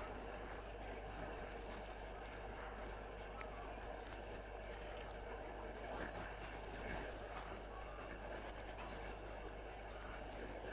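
Goldcrests calling: a run of many short, very high, thin notes, mostly quick falling calls with a few rapid trills, over a steady background hiss.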